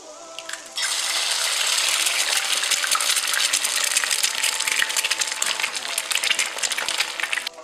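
Oily tomato-and-onion sauce sizzling and crackling in a frying pan as eggs are cracked into it. The sizzle starts suddenly about a second in and cuts off just before the end.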